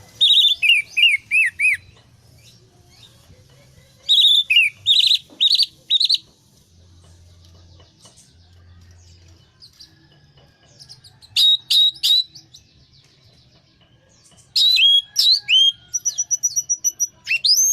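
Orange-headed thrush singing in loud bursts of quick, sliding whistled notes, with pauses of a few seconds between phrases.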